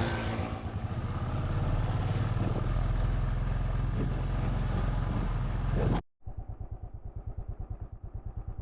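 Royal Enfield Thunderbird 500's single-cylinder engine running as the motorcycle rides, with wind noise over it. About six seconds in it cuts off abruptly and gives way to a quieter engine with an even, steady thump.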